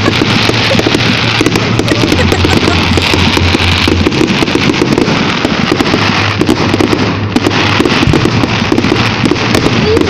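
Fireworks going off continuously: a dense run of overlapping bangs and crackles.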